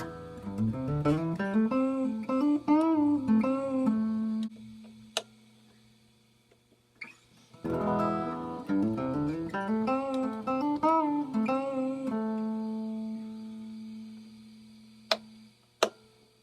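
Gretsch G3161 hollow-body electric guitar played clean through a Fender Excelsior tube amp: a short melodic phrase of single picked notes, some with bends or vibrato, ending on a long ringing note that fades, then the same phrase played again and left to ring. Two sharp clicks near the end.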